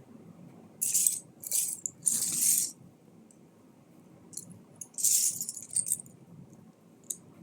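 Loose plastic Lego pieces clattering as they are stirred and sifted, in a few short bursts with single clicks in between.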